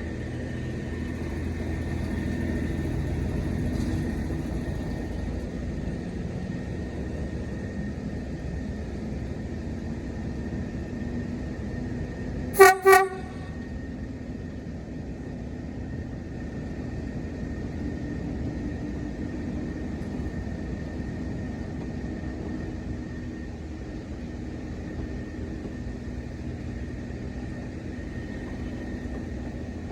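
Diesel locomotive engine running steadily, with two short toots on its horn close together about halfway through.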